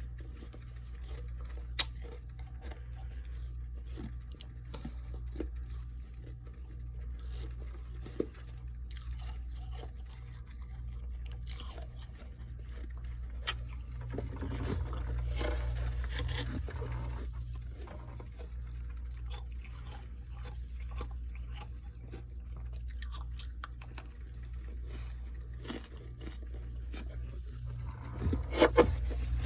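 Close-up chewing and crunching of frost, with scattered sharp crunches and a loud cluster of bites near the end, over a steady low hum.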